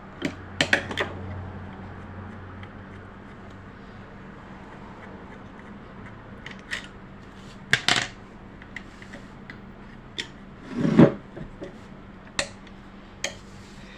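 Metal parts of a Butterfly sewing machine being worked on by hand: scattered clicks, taps and rubbing as a plate is unscrewed and taken off, with two louder knocks, the second about three seconds after the first.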